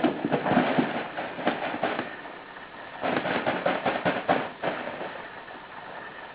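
Cat play tunnel rustling and crackling as two cats scramble in and against it, in two bursts: one of about two seconds, then another starting about three seconds in.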